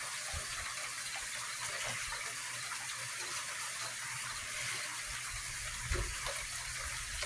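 Steady rain falling, an even hiss, with a brief low bump about six seconds in.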